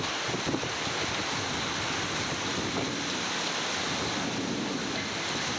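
Heavy rain falling in strong wind, a steady, even rush of noise.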